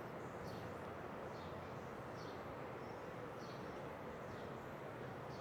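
A bird chirping: short, high chirps that fall in pitch, repeating about once a second, over a steady background hiss.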